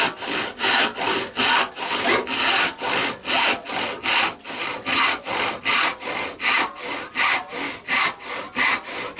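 Restored Sandvik No. 277 handsaw cutting through wood with quick, even strokes, about three a second, the teeth cutting freely through the board.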